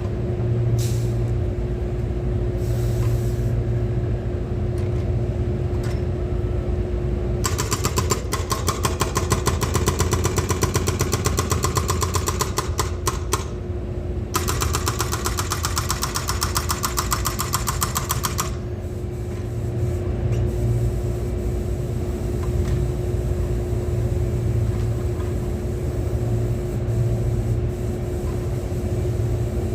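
Excavator's diesel engine running steadily. For about ten seconds, starting roughly a quarter of the way in, a fast, even clatter rides over it, with a brief break partway through.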